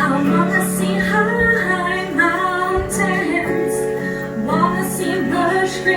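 Music: a woman singing with instrumental accompaniment.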